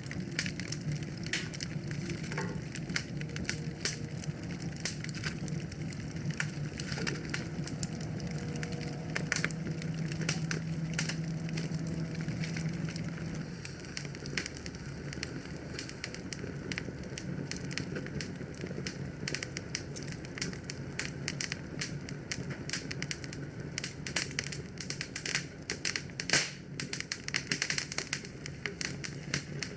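Wood fire in a fireplace crackling and popping steadily, with many sharp snaps over a low rumble of flames that eases about halfway through.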